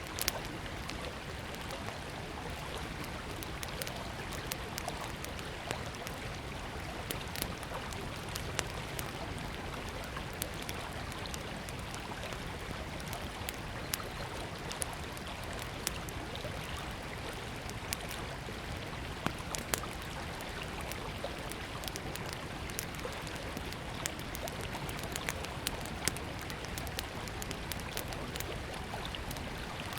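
Small wood fire crackling, with scattered sharp pops, over the steady rush of a flowing river.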